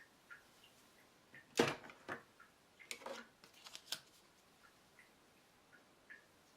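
Faint handling clicks and knocks: a sharp knock about a second and a half in, then a quick run of clicks around three to four seconds in, with light ticks between.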